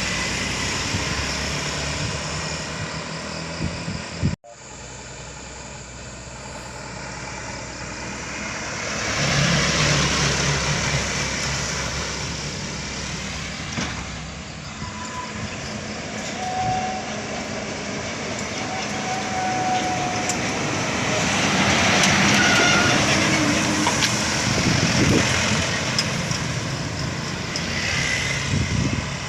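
Truck engines running under load on a steep climb, with the noise of passing traffic swelling louder twice. The sound drops out abruptly for a moment about four seconds in.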